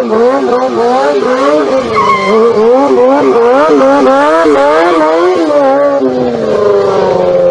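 Motorcycle engine revving up and down over and over, about two swells a second. Near the end the pitch falls away and settles to a steady note.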